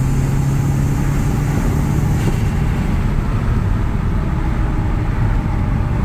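The MK1 Audi TT's turbocharged 1.8-litre four-cylinder engine heard from inside the cabin while driving. A steady engine note fades about two seconds in, leaving road and tyre noise.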